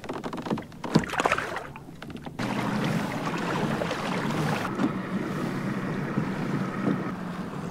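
A few knocks and handling sounds on a kayak, then, from about two and a half seconds in, a steady rush of wind on the microphone and water around the boat.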